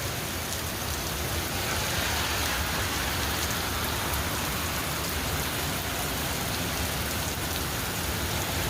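Steady rain falling: a continuous even hiss with scattered ticks of individual drops.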